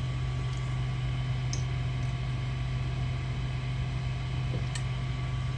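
Steady hum of the Ender 3 3D printer's cooling fans while the machine is switched on and idle, with a couple of faint light clicks.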